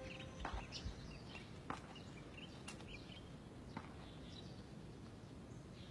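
Faint outdoor ambience with a few scattered, short bird chirps over a low hiss, and an occasional light click.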